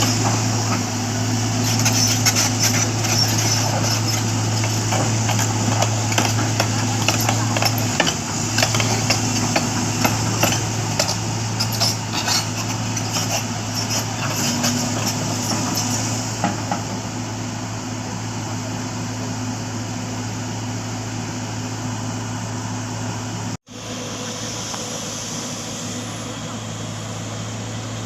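A heavy vehicle's engine runs with a steady low hum, under scattered metallic knocks and clanks that thin out after about 16 seconds. Background voices are heard.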